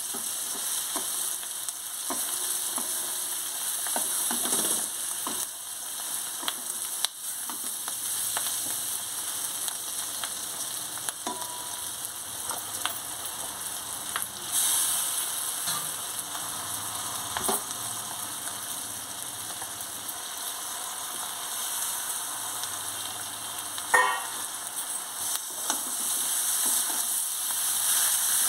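Chopped onions sizzling in hot oil in a metal kadai, stirred with a wooden spatula that scrapes and knocks against the pan. About halfway through, the sizzle grows louder as chopped green capsicum goes into the pan, and there is one sharp knock near the end.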